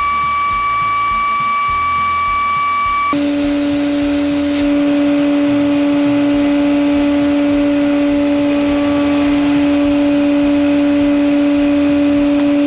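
Shop machinery running with a steady high whine. About three seconds in it changes abruptly to a lower steady hum with a hiss of air over it.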